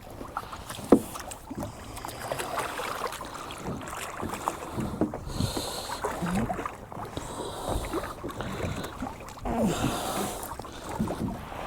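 Handling noise aboard a small fishing boat: scattered knocks and clatter against the hull and gear, with one sharp knock about a second in, and short bursts of hiss in between.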